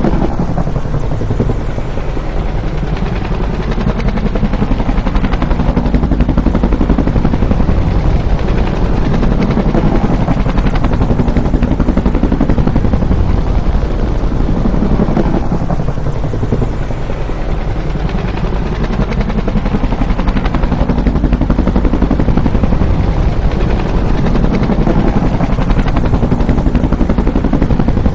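Bell UH-1 Huey helicopter's rotor beating at close range, its pitch sweeping as it passes. The pass repeats about every fifteen seconds, with a slight dip in loudness about two seconds in and again about seventeen seconds in.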